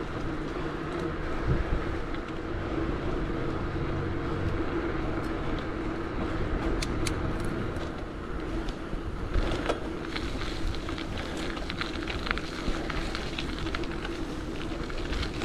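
Steady road and traffic noise heard while riding a bicycle along a city street, with a constant hum under it; from about two-thirds of the way in, a run of light clicks and rattles joins it.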